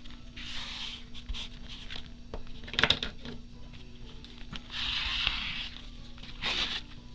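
Hands working with paper and cloth on a tabletop: irregular rustling rubs and swishes with a few light taps, the loudest tap about three seconds in.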